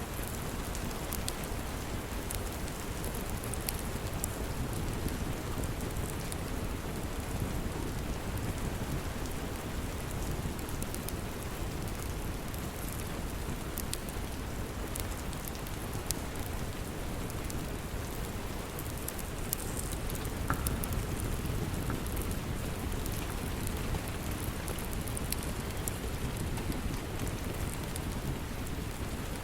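Steady rain, heavy in the low end, with scattered small sharp crackles and pops from a wood fire in a fireplace.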